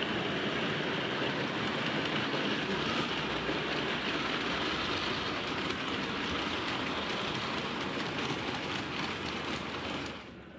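Model trains running on a model railway layout: a steady whir and rattle of small electric motors and wheels on the track. The sound drops off sharply near the end.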